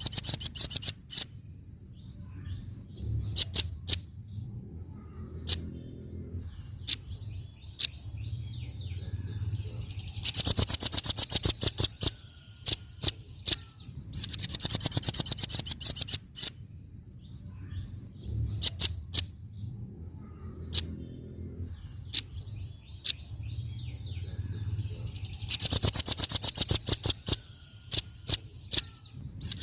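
Velvet-fronted nuthatch calling: rapid, very high, ticking trills in bursts of about two seconds, three times, with scattered single sharp notes between them, over a faint low hum.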